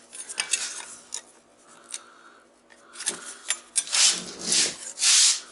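Scraping and rubbing of a metal tool on a transformer's steel core. A few short scratches come first, then three longer scraping strokes near the end.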